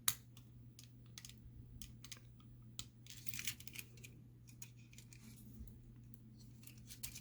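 Faint, scattered clicks and light scrapes of the small parts of a Matchbox diecast toy fire truck being handled and worked apart, with a sharper click at the start and a quick flurry of clicks about three seconds in, over a steady low hum.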